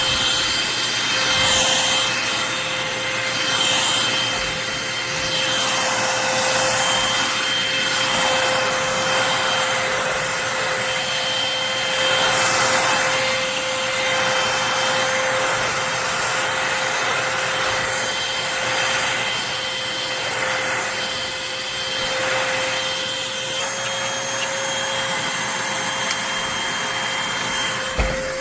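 Eureka Blaze stick vacuum running with a steady motor whine, pushed back and forth across the floor so its suction noise swells and fades about every two seconds. A short knock near the end.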